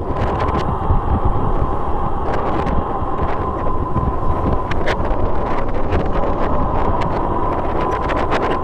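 Strong wind buffeting the microphone, a loud, gusting rumble with scattered crackles, over a faint steady mid-pitched hum.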